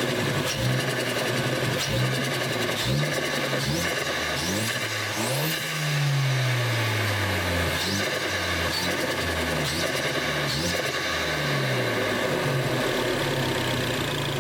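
Ford Focus ST's turbocharged engine revving up and dropping back several times, with one long fall in pitch about six seconds in and high whistling sweeps as it spools. With a Go Fast Bits DV+ diverter valve and an aftermarket air filter, the turbo is set up to flutter when the throttle is lifted.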